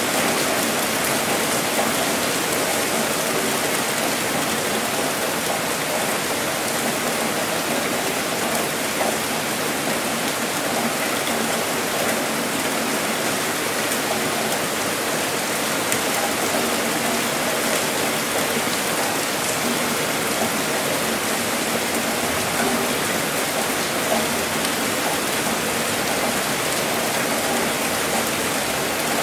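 Heavy rain falling steadily, a dense, even hiss of many drops with no breaks or thunder.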